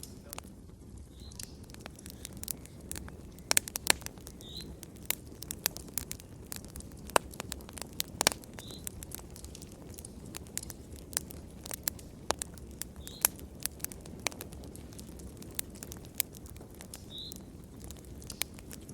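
Wood fire crackling: irregular sharp pops and snaps over a low, steady rush of burning, with a faint short high chirp about every four seconds.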